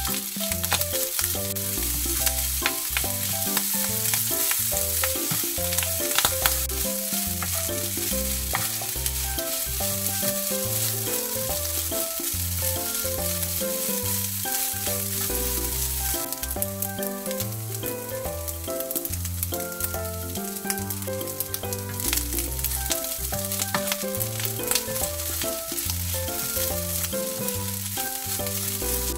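Kimchi fried rice with diced Spam sizzling in a nonstick frying pan while a plastic spatula stirs and scrapes it, with many small clicks of the spatula on the pan. Background music plays under it.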